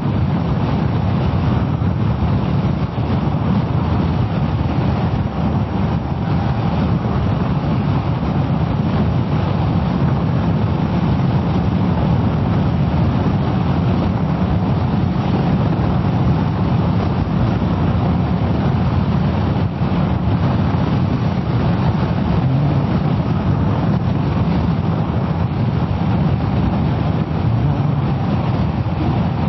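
Steady wind rush and running engine of a Kawasaki ER-6f motorcycle being ridden at an even pace, with no marked change in speed.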